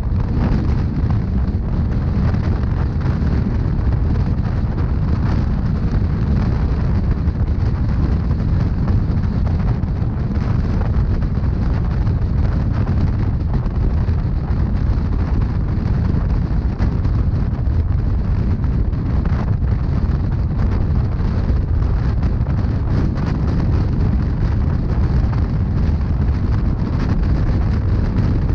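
Steady deep rumble of a Rhaetian Railway narrow-gauge passenger train running along the track, heard from on board.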